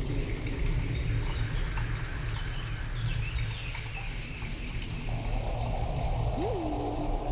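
Sound-designed storm ambience built from a rain recording: steady rain hiss over a deep continuous low rumble, with faint chirping squiggles in the first half. Near the end a single synthetic tone sweeps sharply up, drops back and then holds.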